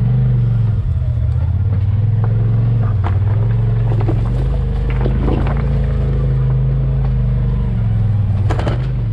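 Off-road vehicle engine running at low, slightly varying throttle while crawling a trail, with scattered knocks and clatter from the rough ground; a louder knock comes near the end.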